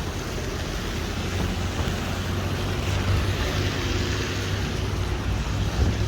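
Steady rainy street ambience: the hiss of rain and of car traffic on wet road, over a continuous low rumble.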